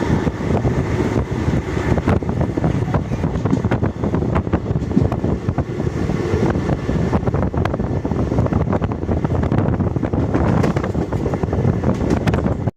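Train running along the track with a steady rumble of wheels on rails and frequent sharp clicks and rattles, wind buffeting the microphone.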